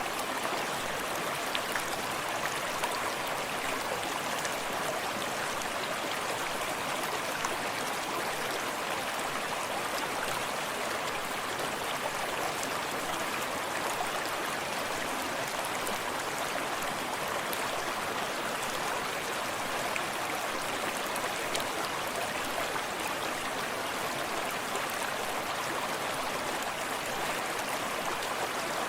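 Small forest creek running steadily, water splashing and burbling over stones in an even rush with faint little droplet splashes.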